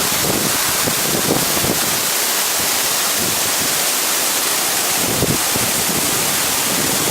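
Waterfall pouring over a rock wall, a loud, steady rush of falling water, with a few brief low buffets of wind on the microphone.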